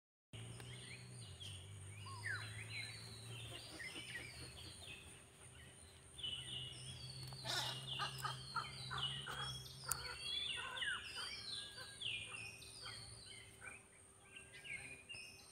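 Birds chirping and calling outdoors in many short, quick notes, sparse at first and busier from about six seconds in, over a faint steady high whine and a low hum.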